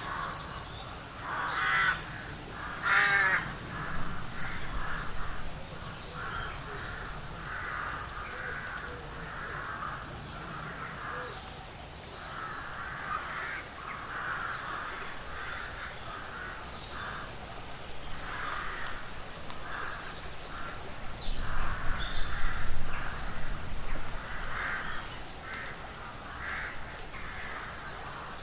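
Woodland ambience with harsh, caw-like animal calls repeating every half second to a second over a steady low rumble. One louder, higher call comes about three seconds in, and the low rumble swells briefly about three-quarters of the way through.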